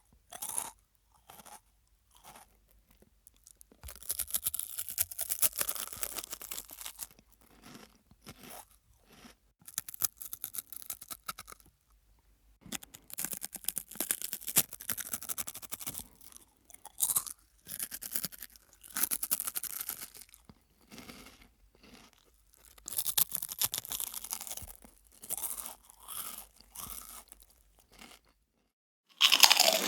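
A person chewing a crunchy snack, with crisp crunches in irregular bursts separated by short pauses.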